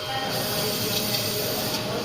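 Coolant pump of a small CNC cylindrical grinder running, its coolant spray making a hiss that starts about a third of a second in and stops after about a second and a half. Under it is a steady tone from the running machine.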